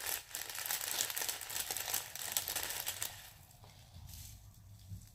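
Dense crinkling and crackling of handled material, stopping about three seconds in, followed by quieter handling.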